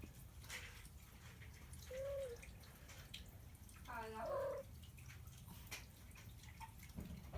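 Domestic cat meowing twice: a short single-tone call about two seconds in, then a fuller meow about four seconds in, over faint scattered ticks.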